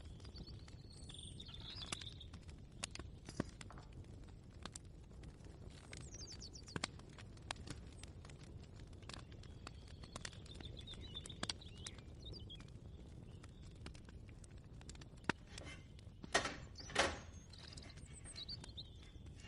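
Kitchen ambience: a steady low rumble with scattered light clicks and knocks, birds chirping in short trills now and then, and a few louder knocks about three-quarters of the way through.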